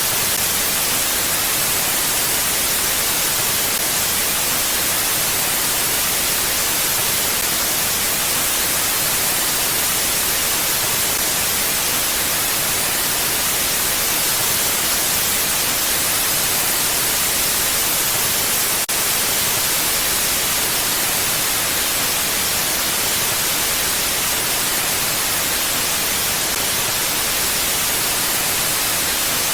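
Steady wind hiss, even and unchanging, brightest in the high range and with no gusts or lulls. A single faint click comes about two-thirds of the way through.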